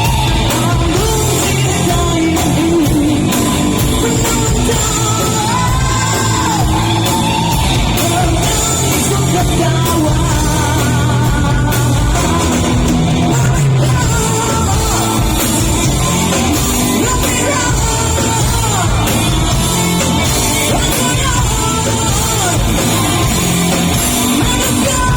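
A rock song performed loud: a man sings in a high, straining rock voice over amplified band music.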